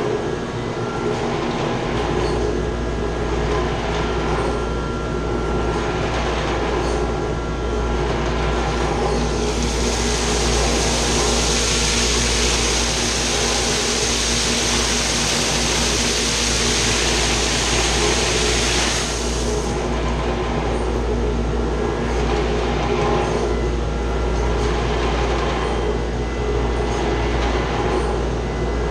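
Chiller-plant machinery running with a steady hum and drone that swells softly about every two seconds. About ten seconds in, a loud hiss starts, holds for about ten seconds and stops.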